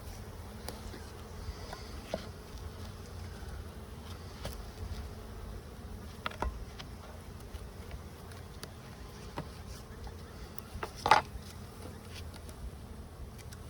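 A package of honeybees buzzing steadily as a mass, with scattered small clicks of handling the package and feeder can, and one brief louder handling noise about eleven seconds in.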